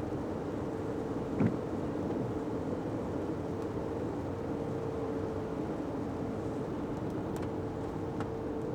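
Steady engine hum and road noise inside a moving Fiat 500X, with a short knock about a second and a half in.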